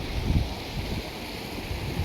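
Wind buffeting the microphone in uneven low rumbling gusts, over a steady rushing hiss.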